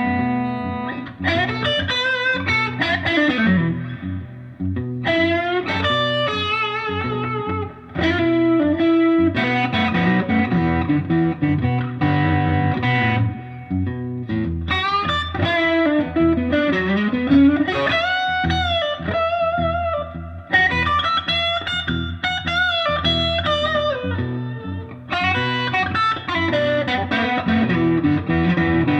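Lightly overdriven Fender Stratocaster electric guitar playing a blues shuffle lead over a looped rhythm guitar part, with bent notes and held notes with vibrato.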